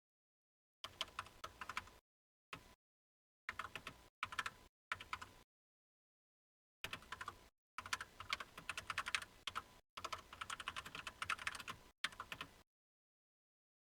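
Typing on a computer keyboard: quick runs of key clicks in bursts, broken by short pauses, as numbers are entered from memory.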